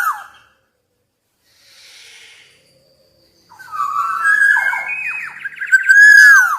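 Black-naped oriole singing: the tail of one phrase of fluty whistles with quick downward slurs, a pause of about three seconds, then another such phrase that ends in a loud falling whistle.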